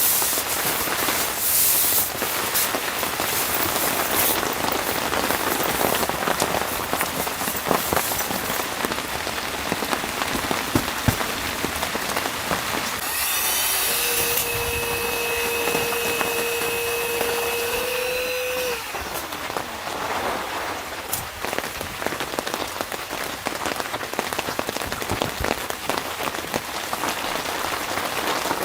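Steady rain pattering, an even hiss speckled with many small drop clicks. Midway a steady tone holds for about five seconds, stepping up slightly just before it stops.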